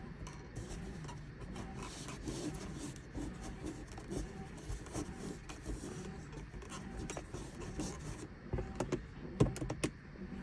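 Irregular small clicks and knocks over a low steady hum, with one sharper click about nine and a half seconds in.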